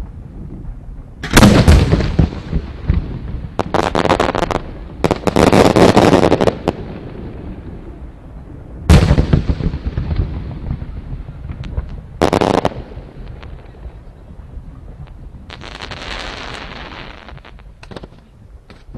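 Fireworks shells bursting overhead. There is a loud bang about a second in, a run of crackling bursts a few seconds later, a sharp bang near the middle, another burst a few seconds after it, and a fainter crackle near the end.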